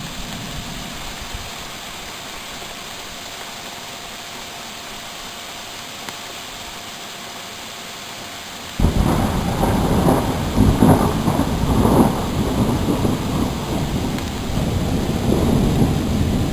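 Steady hiss of heavy rain, then about halfway through a loud rumble of thunder starts suddenly and rolls on in surges over the rain.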